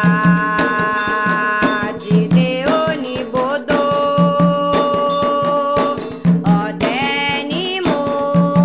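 Candomblé chant to Xangô: voices singing long held notes over a steady beat of drums and percussion.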